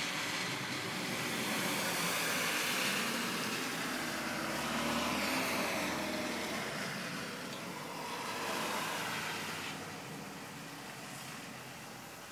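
Motor vehicle running, a steady noisy rumble that swells and eases, with a low hum for a couple of seconds around the middle.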